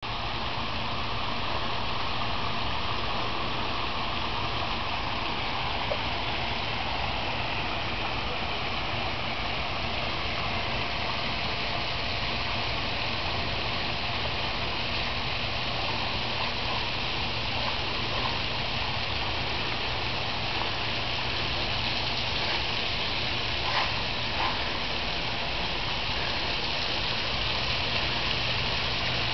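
Steady rushing noise like moving water, with a constant low hum underneath and a couple of brief knocks near the end.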